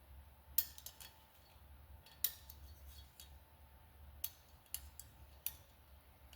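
Small steel valve-train parts clicking and tapping against metal as they are handled and set down during valve removal, seven or so light, sharp clicks at irregular intervals over a faint low hum.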